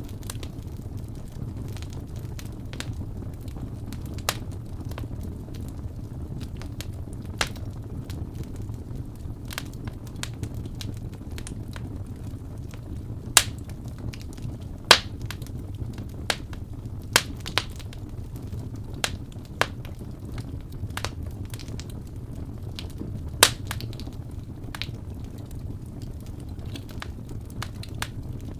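Wood fire burning in a fireplace: a steady low rumble of flames with scattered sharp crackles and pops from the burning logs, a few of them much louder.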